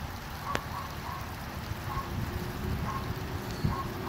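Light rain outdoors, with water drops plinking irregularly about once a second over a low rumble.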